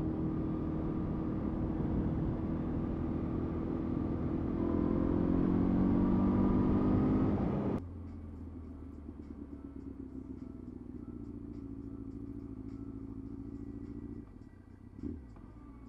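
Motorcycle engine running under acceleration, its pitch climbing for a few seconds before the sound drops away abruptly about eight seconds in, leaving a quieter steady hum. The rider suspects it is not firing on all cylinders, as the bike has been losing power.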